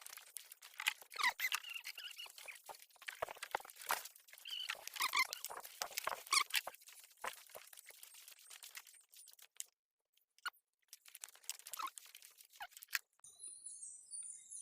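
Irregular rustling and crackling handling noise with a few short squeaks, thinning out after about nine seconds; near the end a thin, steady high tone comes in.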